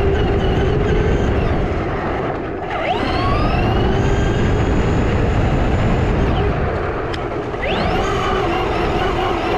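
Electric RC car motor whining over a steady rumble, its pitch rising sharply as it speeds up, once about three seconds in and again near the end, each time after a short dip.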